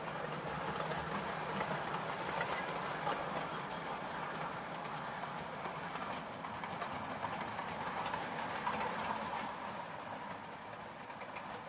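OO gauge model train running along the track, its wheels clicking rapidly over the rail joints with a steady running rumble that eases a little near the end.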